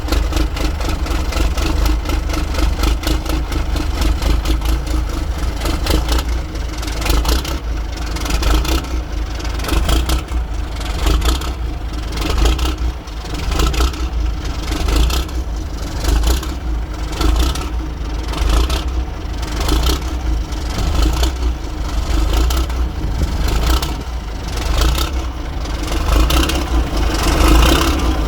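Caterpillar 3406B inline-six diesel in a 1986 Peterbilt 359 running just after a cold start, a steady low diesel rumble with clattering pulses, getting a little louder near the end.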